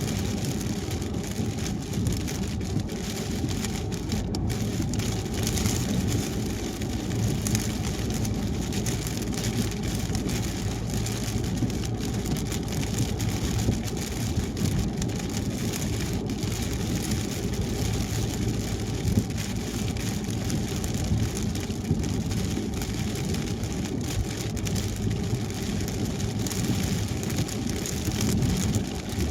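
Car driving on a wet highway in the rain: a steady low rumble of tyres and engine with rain falling on the car and a faint steady hum.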